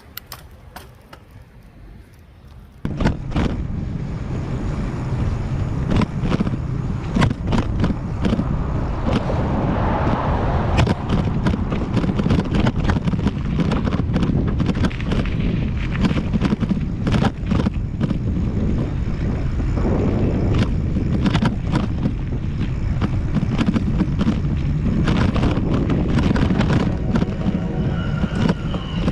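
Wind rumbling on the microphone of a moving bicycle ride, with frequent clicks and rattles from bumps in the road. It starts suddenly about three seconds in after a quieter stretch.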